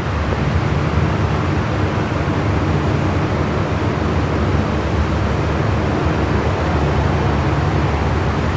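Jet aircraft engines running at the airfield: a steady, loud low rumble with hiss over it.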